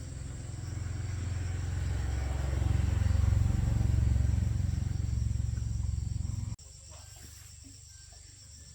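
A machine running with a low, fast-pulsing hum that grows louder over the first few seconds and stops abruptly about six and a half seconds in.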